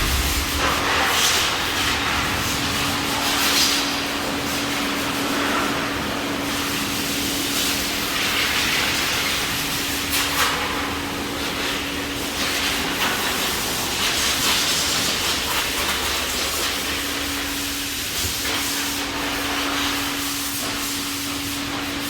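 Car wash vacuum running: a steady rushing hiss of air over a constant motor hum. The hiss swells and eases every second or two as the nozzle moves.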